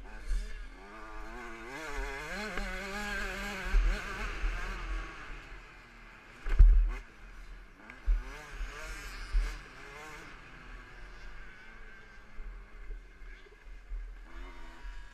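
KTM 65 SX 65cc two-stroke motocross engine revving up and down under a rider's throttle, loudest in the first few seconds and then dropping back. Heavy low thumps of wind or jolts on the camera's microphone break in several times, the strongest about six and a half seconds in.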